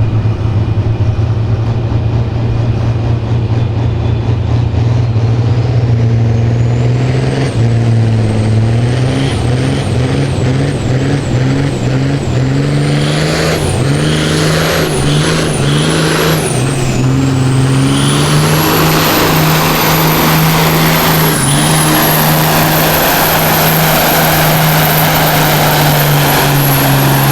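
John Deere 6030 pulling tractor's turbocharged diesel engine at full load down the pull track. Its engine note and high turbo whine rise and dip several times, then hold high and steady for the rest of the pull.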